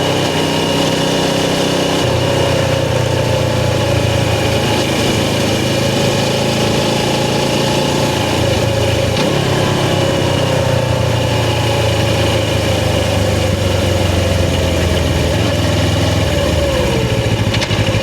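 Suzuki GS500's air-cooled parallel-twin engine running steadily at low revs. Its note shifts slightly a couple of seconds in and again near the end.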